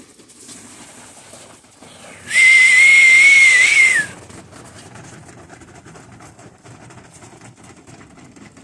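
A whistle blown once, a loud steady high tone with breathy hiss, lasting under two seconds and dipping in pitch as it ends: a pigeon flyer's whistle calling his birds down to the loft.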